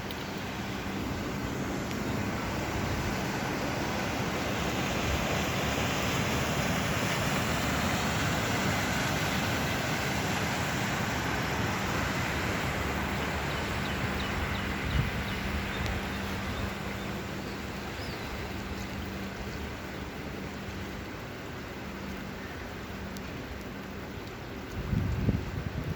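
Steady rainfall, an even hiss of rain, with a faint low hum beneath and a few louder knocks near the end.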